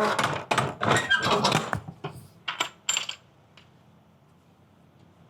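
A run of metallic clattering and knocks, then a few separate sharp clicks before it dies away.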